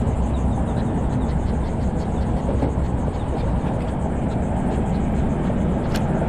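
Steady wind rumble buffeting the microphone outdoors on open water, with one sharp click a little before the end.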